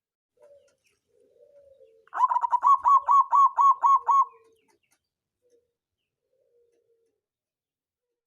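Zebra dove (perkutut) cooing: a few soft, low opening notes, then a fast run of about nine loud, evenly spaced coos at roughly four a second that stops short about two seconds later.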